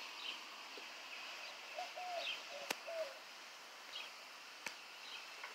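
Birds calling outdoors: scattered short chirps and a few brief arched calls over a steady outdoor hiss. Two sharp clicks come about halfway through and near the end.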